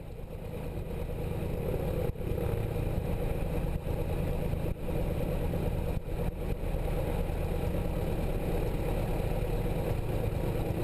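Cessna 172 piston engine and propeller idling steadily, with a low, even drone. It fades up over the first couple of seconds.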